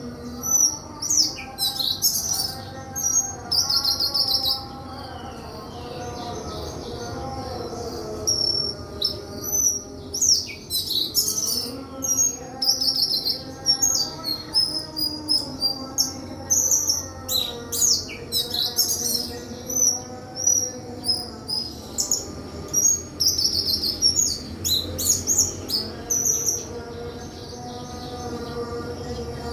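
Sikatan kerongkongan putih (white-throated flycatcher) singing: bursts of high, quick chirps and short trills in repeated phrases, with a pause of a few seconds near the start.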